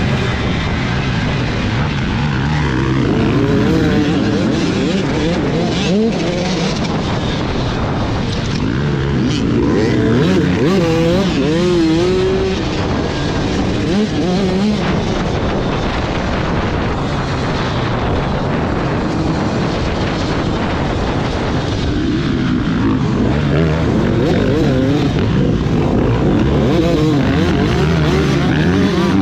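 Several motocross bike engines running and revving together, their pitches climbing and falling as the bikes accelerate and back off.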